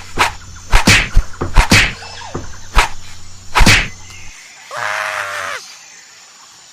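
A quick series of sharp whacks over a steady low hum for about four seconds, then one short, pitched, animal-like call.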